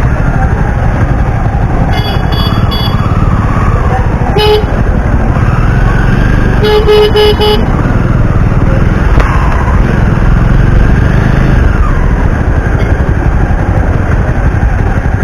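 Jawa 42 motorcycle riding on the road with a steady low rumble of engine and wind. Vehicle horns honk over it: a short toot about four and a half seconds in and a quick string of toots around seven seconds in.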